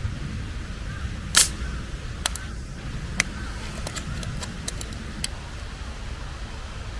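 A handful of sharp clicks and knocks, the loudest about a second and a half in, over a steady low rumble.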